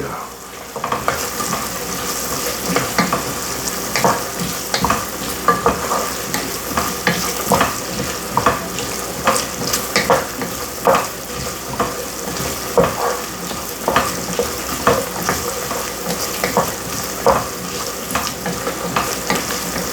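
Diced onions, celery, carrots and red bell pepper sizzling over high heat in a pot, with a spoon scraping and knocking against the pot about once a second as the vegetables are stirred.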